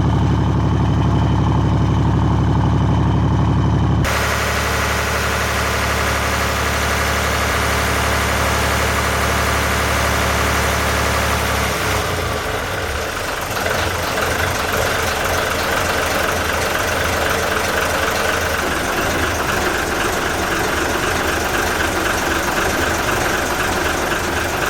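Yamaha MD580KUH marine diesel inboard engine running steadily. The sound changes abruptly about four seconds in and again about twelve seconds in; the later part is noisier, with a steady whine.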